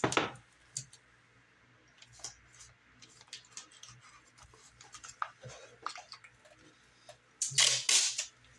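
Masking tape and small parts being handled at close range: scattered faint rustles and light clicks, with a louder, brief rasping tear near the end as tape is pulled off the roll.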